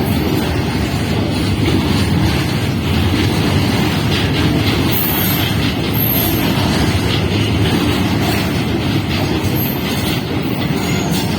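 A heavily loaded freight train of BOST wagons rolling past on the rails: a loud, steady, low rumble of wheels on track.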